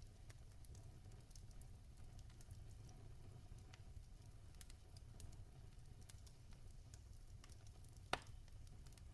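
Logs burning in a fireplace, crackling softly with scattered small snaps over a low rumble, and one louder pop about eight seconds in.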